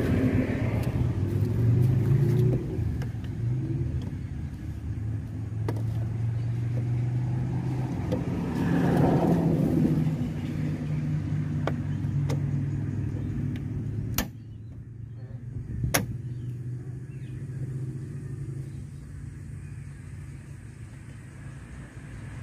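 Low, steady rumble of a motor vehicle's engine that swells twice, with two sharp clicks about two-thirds of the way through.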